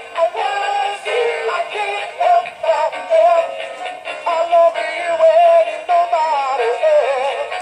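Battery-powered Valentine's plush gorilla toy playing its built-in song: a recorded voice singing a tune over music through the toy's speaker, working again after its battery box was replaced.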